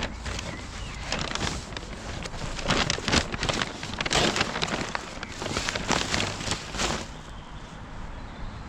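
Rubbish bags and plastic packaging rustling and crinkling as they are rummaged through by hand, in irregular crackly bursts from about one to seven seconds in.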